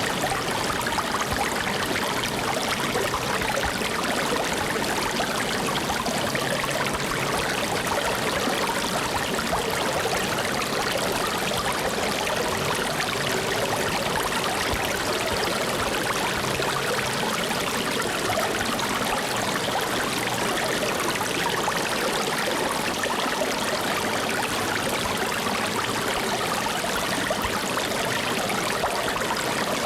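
Flowing stream water, a steady even rush with a trickling texture and no breaks.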